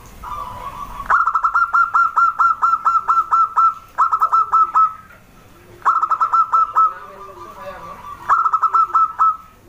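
Zebra dove (perkutut) calling: bursts of rapid, evenly spaced staccato coos, about five notes a second. The first run lasts about three seconds, and three shorter runs follow.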